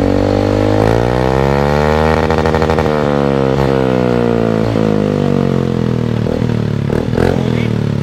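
Motorcycle engine breathing through a Villain carbon aftermarket muffler with heat guard, revved up about a second in, held high for a moment, then easing back down over a few seconds to idle. A few short clicks near the end.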